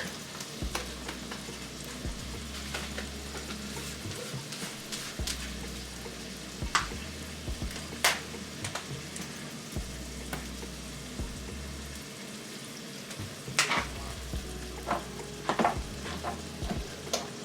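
Taco meat and onions frying in a pan with a steady sizzle, being stirred, with a utensil knocking sharply against the pan every second or few.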